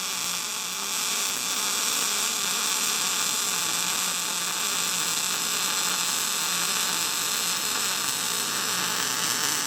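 MIG welding arc from a Lincoln 110-volt MIG welder joining a steel mower deck bracket: a steady hiss with a low hum underneath, cutting off abruptly at the end as the trigger is released.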